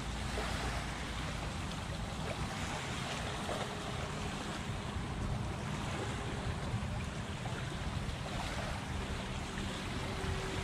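Small waves lapping on a bay shoreline, with wind buffeting the microphone; a faint steady hum runs underneath.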